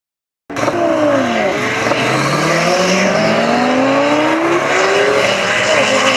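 1968 Ford Falcon drag car's twin-turbocharged 449-cubic-inch small-block Ford V8 at full throttle on a drag strip pass, its engine note climbing steadily. The sound starts abruptly about half a second in after silence.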